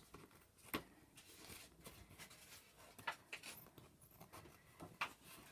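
Faint, irregular snips of scissors cutting card around a template.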